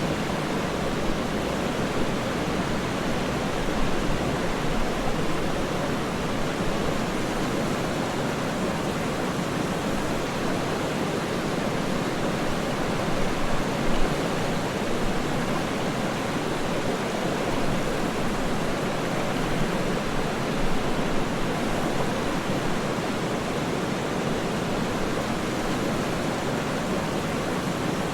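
Waterfall, a steady rushing roar of falling water, even throughout with only slight flickers in loudness.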